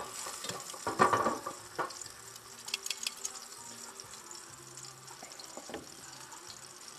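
A small piece of floured carp fillet shallow-frying in oil in a frying pan on a portable gas cooker, sizzling steadily. Metal tongs knock against the pan a few times in the first couple of seconds, with a few lighter clicks around three seconds in.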